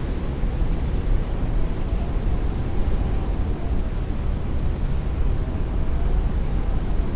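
Heavy rain beating on a window with strong wind, a steady dense rushing noise that is heaviest in the low, rumbling range.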